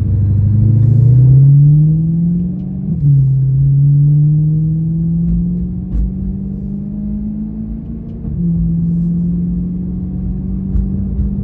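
BMW E92 M3's 4.0-litre V8 accelerating through the gears with its Valvetronics valved exhaust open. The engine note rises, drops at an upshift about three seconds in, rises again, drops at a second upshift later on, then holds steady.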